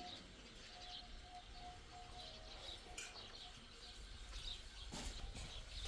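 Small birds chirping faintly in short, scattered calls, with a faint held tone in the first half and a couple of sharp clicks.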